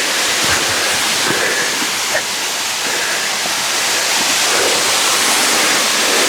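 Waterfall cascading close by: a loud, steady rush of falling water. A few faint knocks sound in the first couple of seconds.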